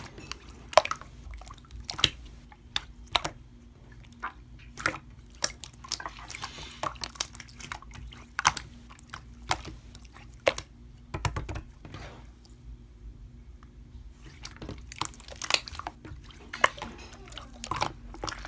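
Slime being squeezed and pressed by hand, giving irregular wet clicks and pops, several a second, with a brief lull a little past the middle.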